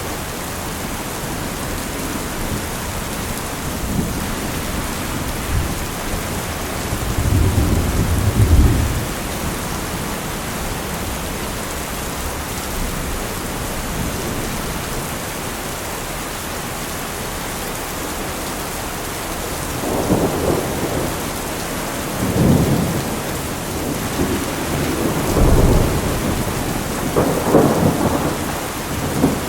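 Steady heavy rain with rumbles of thunder, one swell about a quarter of the way through and several more rolling in during the last third.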